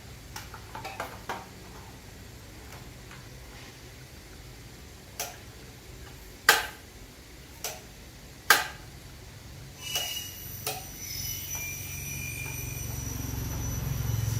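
Metal parts and hand tools clinking and knocking during repair work: a few light clicks, then about six sharp separate knocks, two of them much louder, followed by ringing metal, over a low steady hum.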